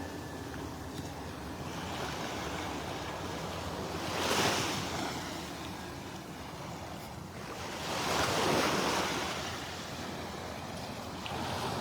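Gulf of Mexico surf washing up on the beach, swelling louder twice, about four seconds in and again around eight to nine seconds.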